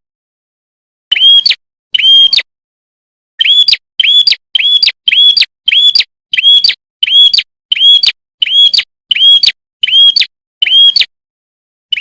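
A prenjak (prinia songbird) calling a fast series of sharp, high chip notes, each a quick up-and-down hook. There are two spaced notes first, then a steady run of about two notes a second.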